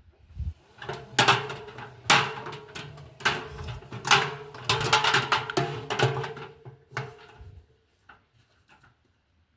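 Indesit washing machine drum turning at slow tumble speed for about seven seconds, the motor humming steadily while the laundry inside thuds about once a second, then stopping.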